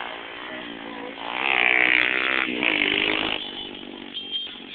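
Pit bike engine revving hard, its pitch climbing and wavering. It is loudest from about a second and a half to three and a half seconds in, then drops away.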